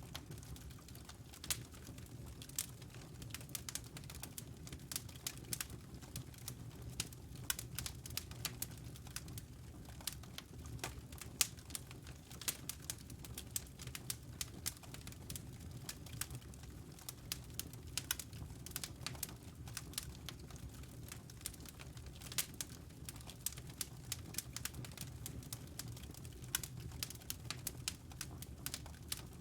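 Wood fire crackling in a fireplace, with many irregular sharp pops and snaps over a low, steady rumble.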